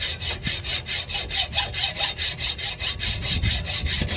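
Hand hacksaw cutting a steel wheel stud in fast, even back-and-forth strokes. The blade is riding on the edge of the bolt rather than dropping into the crack.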